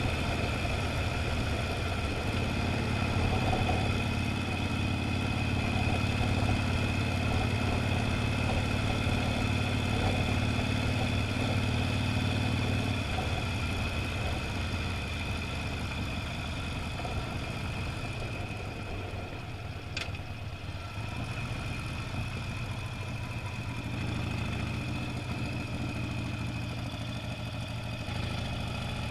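Motorcycle engine running steadily while riding, its note shifting lower around the middle and easing off for a few seconds later on. There is a single sharp click about two-thirds of the way through.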